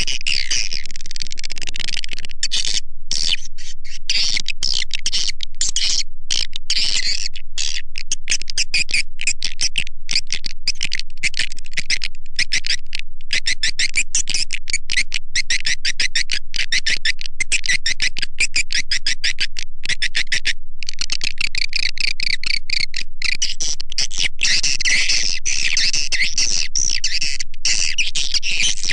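Swiftlet lure call recording: a dense, unbroken stream of high-pitched swiftlet chirps and twitters, with many brief gaps. It is the sound played from swiftlet houses to attract swiftlets to roost and nest.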